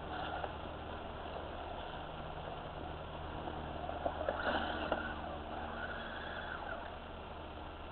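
Small electric motors and gearboxes of radio-controlled crawler trucks whirring as they crawl over rocks. A few short clicks and a brighter whine come about four to five seconds in.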